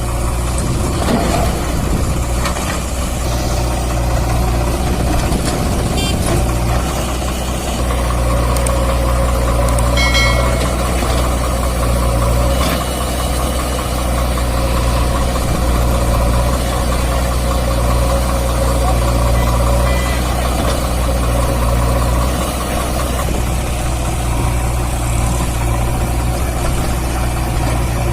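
Swaraj 744 FE tractor's three-cylinder water-cooled diesel engine running steadily.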